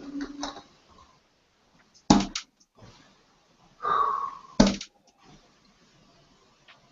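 Three sharp impacts about two and a half seconds apart: darts being thrown into a dartboard, one player's three-dart turn. The first hit rattles briefly, and a short breathy sound comes just before the second.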